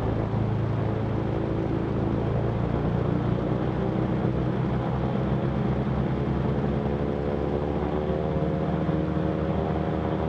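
The twin piston engines of a Cessna 310Q running steadily on the ground before the run-up checks, a constant drone.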